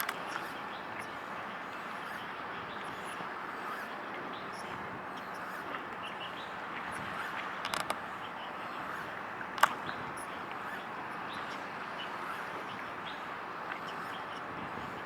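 Steady outdoor background noise by the waterside, with faint scattered bird calls; a few clicks come just before eight seconds in, and a single sharp click, the loudest sound, at about ten seconds.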